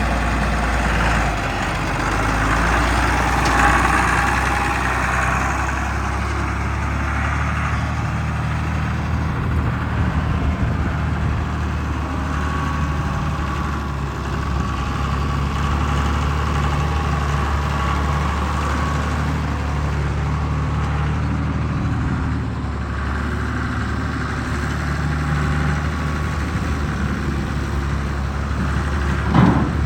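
John Deere 3140 tractor's six-cylinder diesel engine idling steadily, with a short knock near the end.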